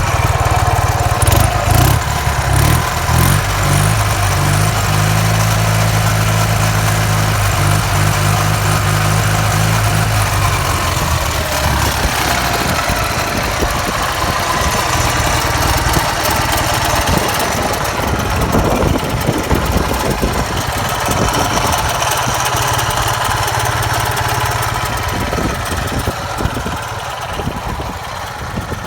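Ural IMZ 8.103-10 motorcycle's air-cooled boxer-twin engine running, mostly at idle, with a steady low note for about the first eleven seconds that then changes. The old timing gears are ones the owner says are noisy.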